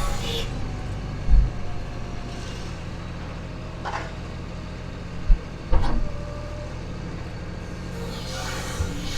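Heavy semi truck's diesel engine running steadily with a low hum, broken by a few short low thumps.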